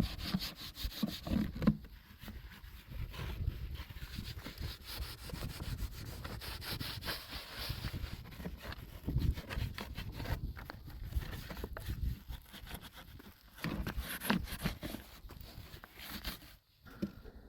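Irregular scraping and rubbing strokes, many in quick succession, stopping briefly near the end.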